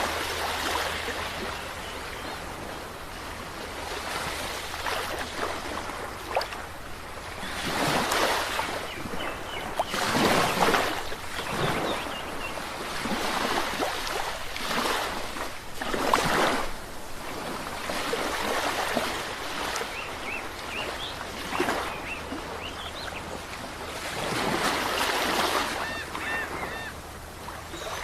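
Sea waves breaking and washing onto the shore, each swell rising and falling away every few seconds, with the loudest breakers about ten to eleven seconds in and again about sixteen seconds in.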